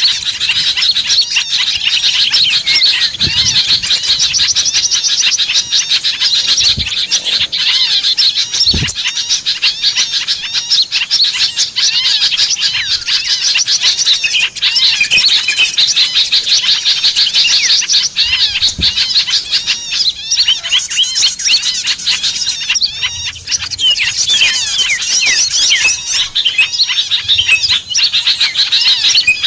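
Dense, unbroken chattering of many small songbirds, with rapid high chirps and trills overlapping without pause. It is a lure recording of small birds, played to draw wild small birds in for catching.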